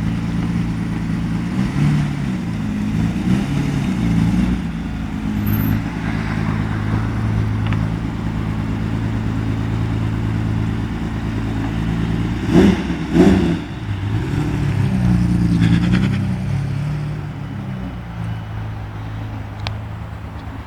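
Ferrari 550 Maranello's V12 running through a Tubi exhaust at a lumpy idle, with light throttle rises. Two quick, sharp blips of the throttle come about two-thirds of the way through. The engine settles and grows quieter near the end.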